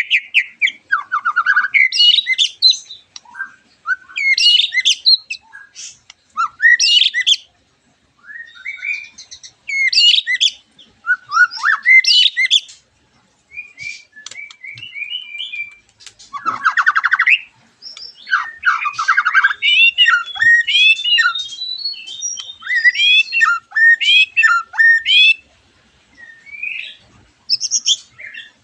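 White-rumped shama song: a fast run of varied whistled phrases, quick trills and sharper notes, each phrase a second or two long, with short pauses between and a rapid buzzy trill around the middle.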